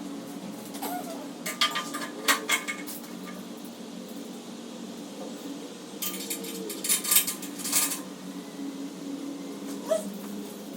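Two bursts of light clattering and knocking as pressure-washer parts are handled during assembly, over a steady low hum.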